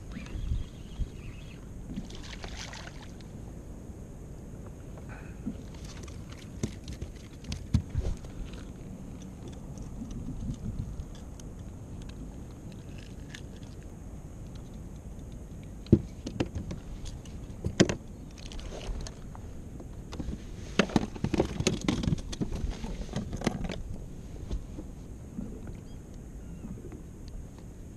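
Knocks and clatter of gear on a fishing kayak over a steady low wash of water and wind, with two sharp knocks partway through and a burst of rattling clatter a little later.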